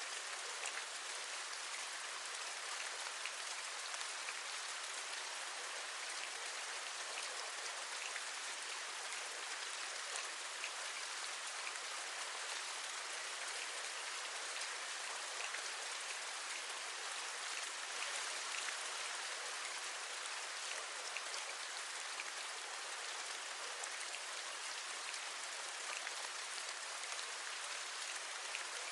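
Steady rain falling, with many small ticks of individual drops over a continuous hiss.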